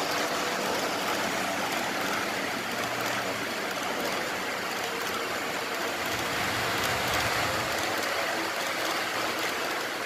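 Steady rumbling din of O scale two-rail model trains running on the layout, mixed with the general noise of a busy room.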